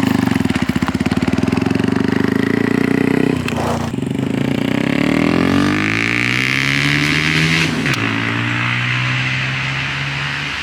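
A mini bike's small single-cylinder engine being revved. It is held high for about three and a half seconds, drops, then climbs steadily in pitch, and settles to a steadier lower note near the end.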